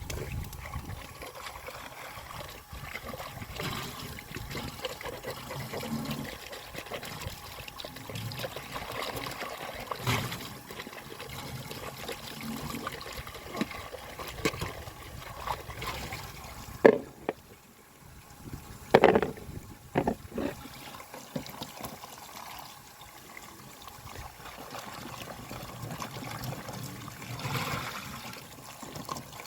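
Water trickling and dribbling steadily, with a few sharp knocks a little past the middle.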